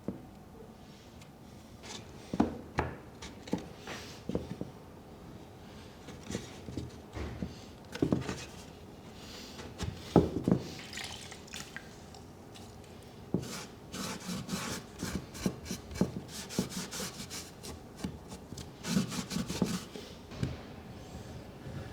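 Japanese cedar pieces handled on a bench: scattered knocks and rubs, then a run of quick rubbing strokes across the wood in the second half.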